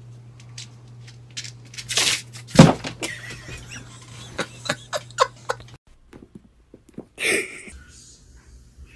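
A series of sharp knocks and clatters, loudest about two and a half seconds in, over a steady low hum that cuts off about six seconds in; a short louder sound follows about seven seconds in.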